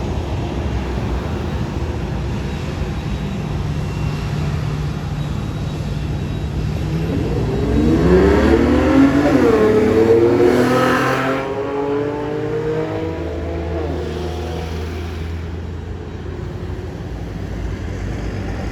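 A road vehicle's engine accelerating close by over a steady low engine hum. About seven seconds in its pitch climbs, drops back once as if shifting gear, then holds and fades away over the next few seconds.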